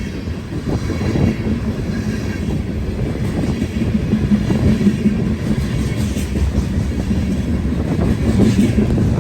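Loaded freight train of tank cars rolling past at speed: a steady heavy rumble of wheels on rail with clicking and rattle from the cars.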